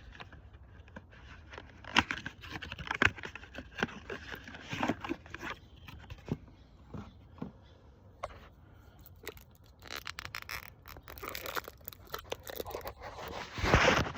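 Irregular knocks, clicks and scraping from parts and packaging being handled, with a louder scraping crunch near the end.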